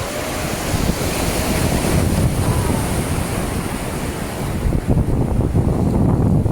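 Wind buffeting the microphone over the rush of river water. About two-thirds of the way through, the high hiss drops away and the low buffeting grows stronger.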